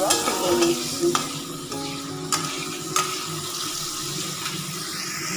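Prawns sizzling as they fry in hot oil in a wok, stirred with a steel spatula that scrapes and taps against the pan a few times.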